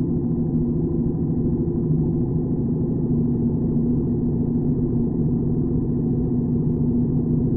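Motorcycle engine running steadily at an even speed, a low constant drone with no change in pitch.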